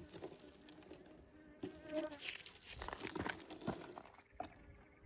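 Honeybees buzzing faintly around a damaged, opened hive, with a few light clicks and scrapes of handling.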